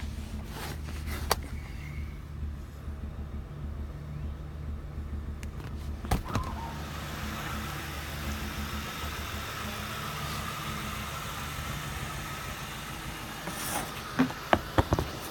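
2007 Ford Crown Victoria's 4.6-litre V8 running steadily with a misfire on cylinder 8. A few sharp clicks sound over it, one about a second in, one about six seconds in, and several near the end.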